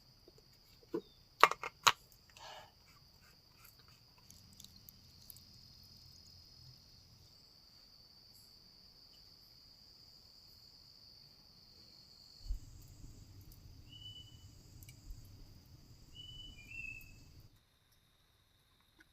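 Forest insects droning steadily in one high, even note, with a few sharp clicks about a second or two in and a few short chirps near the end. The sound cuts off abruptly shortly before the end.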